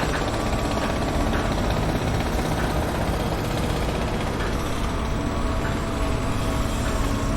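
Construction-site noise dominated by a heavy engine running steadily with a low rumble, with a few faint ticks of work in the background.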